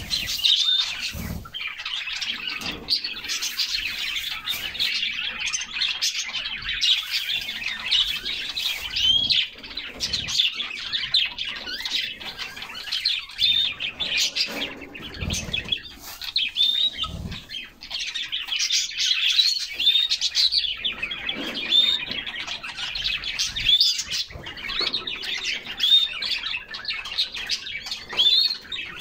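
Several canaries chirping and singing together without pause, a short hooked call note recurring every couple of seconds over the busy song. A few brief low thumps sound in among it.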